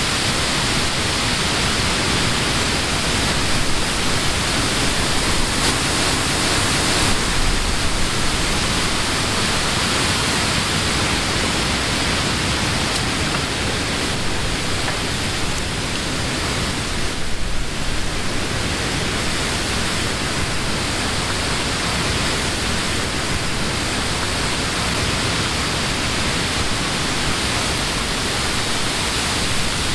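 Summer wind blowing steadily through trees: a continuous rush of stirring leaves that eases slightly for a moment a little past the middle.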